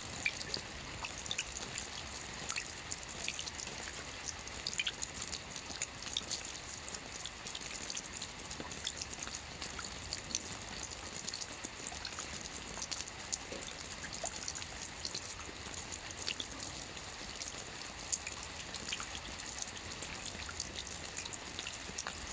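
Steady rain with many individual drops ticking and pattering on a surface, mixed with a light trickle of running water.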